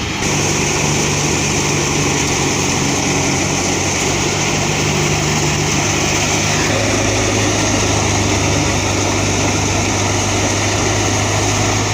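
Tractor engine running steadily under load while driving a wheat thresher, with the thresher's dense whirring hiss over it. The engine note shifts slightly lower about two-thirds of the way through.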